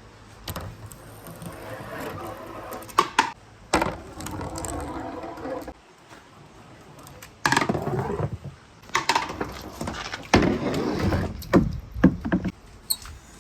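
Balls rolling down a marble run track in about four rolling stretches of a couple of seconds each, with sharp clacks where they strike and drop between track pieces.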